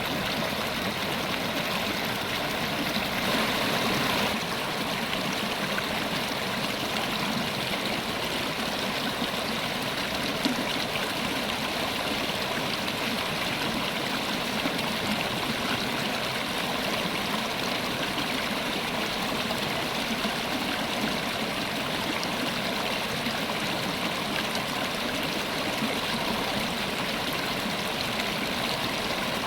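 River water running steadily over rocks, a continuous rushing and gurgling flow that swells slightly for a moment a few seconds in.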